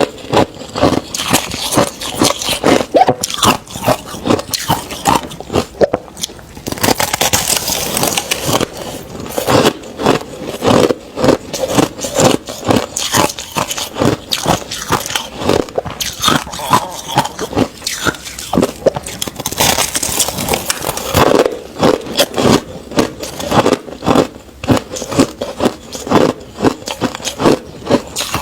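Crushed ice being bitten and chewed close to the microphone: dense, rapid crunching with no pause, and brief hissier, grainier stretches about 7 and 20 seconds in.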